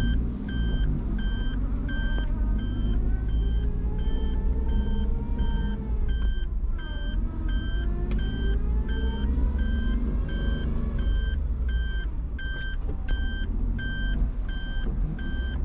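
A car's reversing warning beeping steadily about twice a second inside the cabin while the car backs up during a turn-around, over the engine's low running rumble, whose pitch slowly rises and falls.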